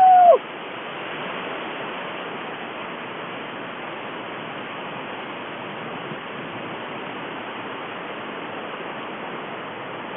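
Steady rushing noise of a strong windstorm, even in level throughout. A long held vocal sound ends about half a second in.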